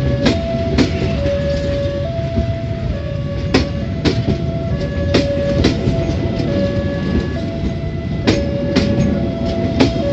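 Passenger train coaches rolling past at close range as the train pulls out of the station: a steady low rumble with sharp, irregularly spaced wheel clacks over the rail joints. A two-note tone alternates steadily in the background.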